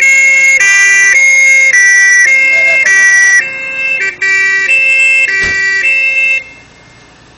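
Fire engine's two-tone siren sounding loud and close, switching between a high and a low note about every half second, then shut off about six seconds in.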